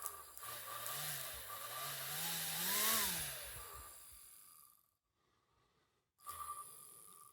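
Small electric motor running with its speed wavering, its pitch rising to a peak about three seconds in and then falling away as it stops; it runs again briefly near the end.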